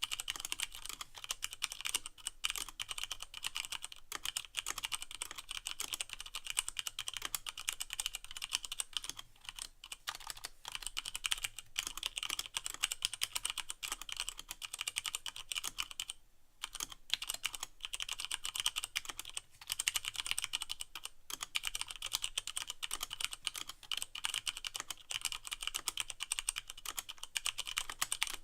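Fast continuous typing on a Leopold FC660M mechanical keyboard with Cherry MX Brown switches and no O-rings, the keycaps bottoming out with dense clacking, with a brief pause about halfway through.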